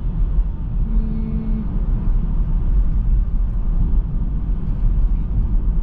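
Car driving on a cleared winter road: a steady low rumble of tyres and engine.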